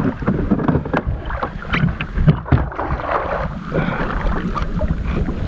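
Irregular knocks, bumps and splashing as a big thrashing snakehead is handled at and aboard a kayak, over wind buffeting the microphone.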